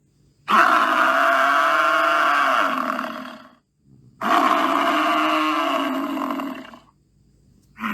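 Water buffalo calling: two long, low calls of about three seconds each, then a short third call right at the end.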